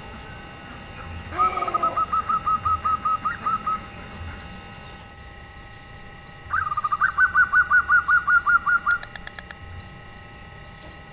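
Female zebra dove (perkutut) giving two rapid rolling cooing trills of about a dozen notes each, the first starting about a second and a half in and the second about six and a half seconds in. This is the female's 'nyelir' call, used to draw males into calling.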